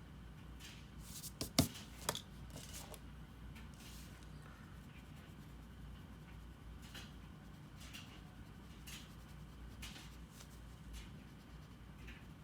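Faint, scattered short scratches of a drawing tool on paper. A sharp click comes about a second and a half in, with a smaller one just after.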